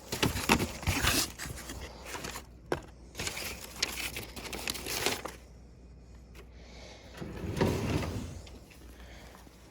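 Footsteps and knocks of someone walking: irregular steps and scuffs for about five seconds, then quieter, with a louder dull noise about eight seconds in.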